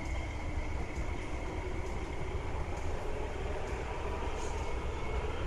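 An MTR West Rail Line electric train running past the platform screen doors of an underground station, a steady low rumble under a high motor whine that fades out near the end.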